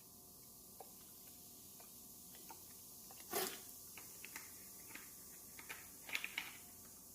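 Quiet kitchen-cleaning handling sounds: scattered small clicks and taps, a short louder hissing burst a little over three seconds in, and a quick cluster of clicks near the end.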